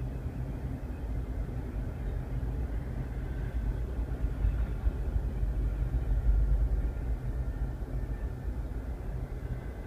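Double-stack container freight train rolling past, heard from inside a car: a steady low rumble that swells a little around the middle.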